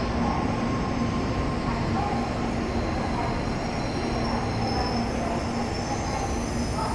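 N700A Shinkansen train pulling in to a station platform, its cars rolling past: a steady rumble of wheels and running gear with a faint high whine over it.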